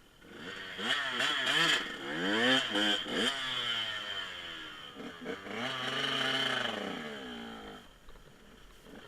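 Dirt bike engine revving hard. First a run of quick rises and falls in pitch, then about four seconds in a longer climb that peaks and drops away, dying down near the end.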